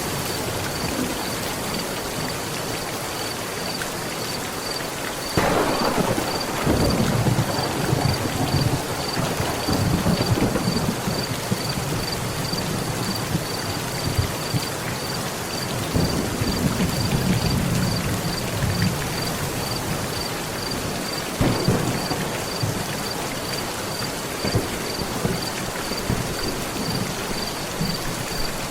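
Heavy rain falling steadily on a metal roof, with thunder: a sharp clap about five seconds in that rolls into a long rumble, another rumble about sixteen seconds in, and a second crack about twenty-one seconds in. A faint high tone pulses about twice a second throughout.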